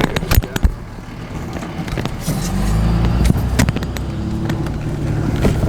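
A vehicle engine running, its low drone coming up and getting louder about two seconds in, with a few sharp knocks and clicks in the first second.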